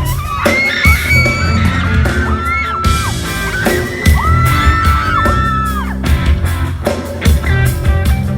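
Pop-rock band playing live in a large hall, drums, bass and guitar with a steady beat, recorded from the audience, with high held screams from the crowd over the music.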